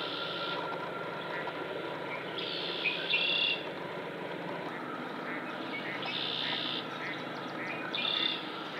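Birds calling around a marsh: short high buzzy calls of about half a second, repeating every two to three seconds, with fainter chirps between, over a steady background hiss.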